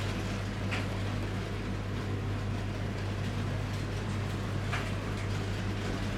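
OO gauge model train running on the layout track: a steady low hum with an occasional faint click.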